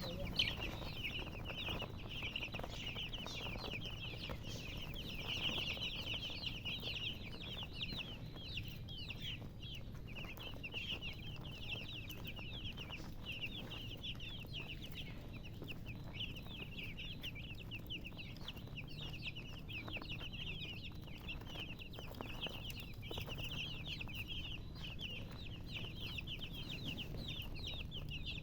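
A group of baby chicks peeping without pause: many short, high, falling peeps overlapping one another.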